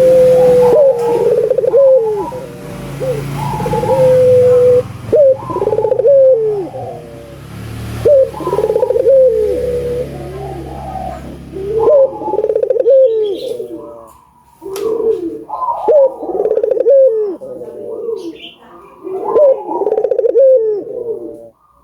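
Barbary dove (burung puter) cooing over and over, one phrase every couple of seconds. A low hum runs underneath for the first half and then stops.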